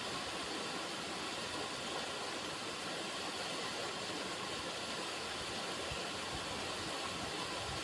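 River water running, a steady rushing without a break.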